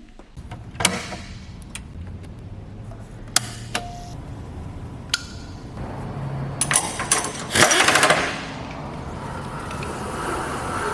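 Workshop handling noises: sharp metallic knocks and clicks over a steady low machine hum, with a loud rush of noise lasting about half a second near the eight-second mark.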